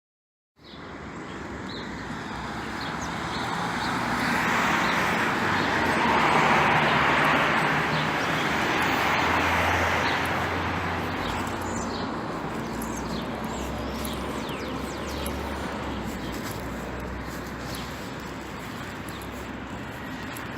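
Rainy-day outdoor ambience that cuts in abruptly after a moment of silence: a steady hiss of rain, and a vehicle passing that swells from about four seconds in and fades after ten, with its low engine hum beneath. Small birds chirp in short calls throughout.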